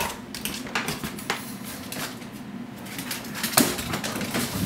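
Scattered light clicks and taps from a Boston terrier with its chicken-leg toy, the loudest about three and a half seconds in.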